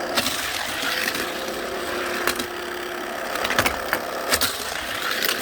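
Motorized toy race track running with a steady whir, broken by several sharp plastic clacks as toy cars hit the track.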